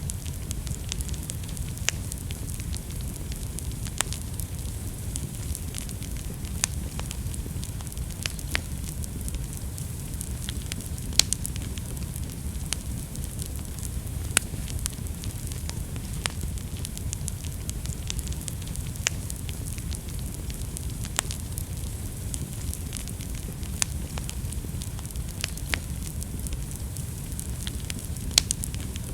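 Wood fire burning with a steady low rumble and irregular sharp crackles and pops, a few of them louder.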